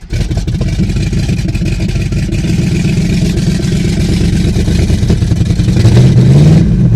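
1974 Plymouth Cuda's cammed 360 V8 catches on a cold start and runs rough and uneven. It is revved up near the end. The engine is slightly out of ignition timing, which the owner says makes it cold-natured and hard to start.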